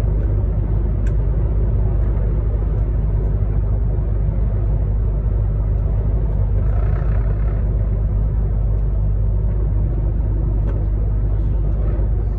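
Truck on the move: a steady low drone of engine and road noise, even and unchanging throughout.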